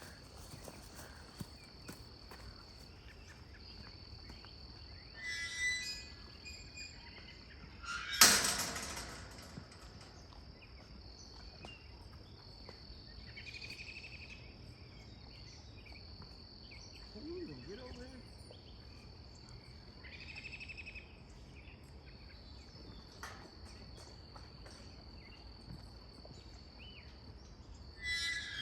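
Outdoor ambience: a steady high-pitched insect drone throughout, with a few short bird calls and one loud sudden knock about eight seconds in.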